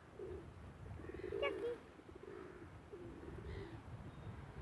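Birds cooing in low, repeated phrases, with one sharper, higher call about a second and a half in. Wind rumbles on the microphone underneath.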